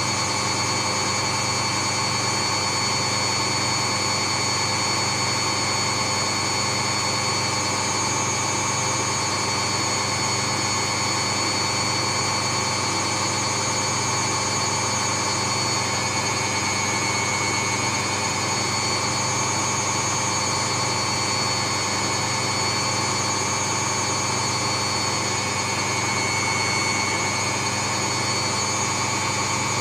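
Steady white-noise drone: an unchanging rush of noise with a constant low hum and faint steady whines in it, like a running engine or fan.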